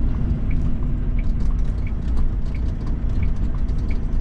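Freightliner FLD120's Cat 3406E diesel running at low speed with a steady rumble, with an even tick-tock of clicks about one and a half pairs a second over it, typical of a turn-signal flasher.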